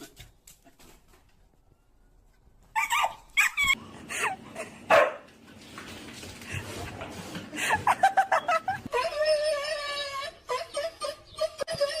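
A dog barking and yipping in short sharp bursts from about three seconds in, with longer drawn-out pitched calls near the end.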